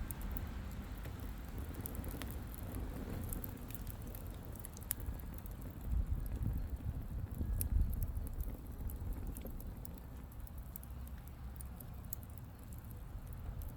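Wood campfire crackling, with scattered small snaps and a few louder pops over a low rumble that swells about six to eight seconds in.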